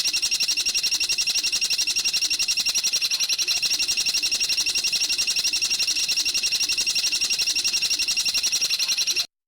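A bird's recorded song: a fast, even trill of high notes, about ten a second, held without a break, that cuts off abruptly near the end.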